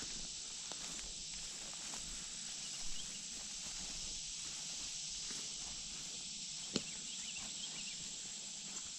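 Footsteps walking over a steady high-pitched outdoor hiss, with a few light clicks and one sharp click about seven seconds in.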